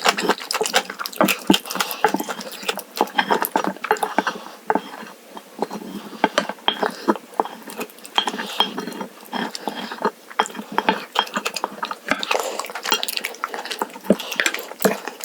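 Eating sounds: utensils clicking and scraping against dishes in quick, irregular succession, with chewing.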